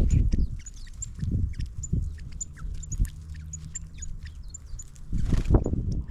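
Small birds calling with a rapid series of short, very high chips, several a second. Louder low thumps and rustles sound underneath, with a loud rush of noise about five seconds in.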